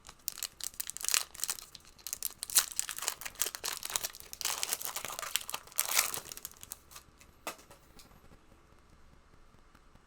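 Plastic wrapper of a trading card pack crinkling and tearing as it is ripped open, in a run of crackly rustles that is loudest in the middle and stops about seven seconds in, followed by one sharp click.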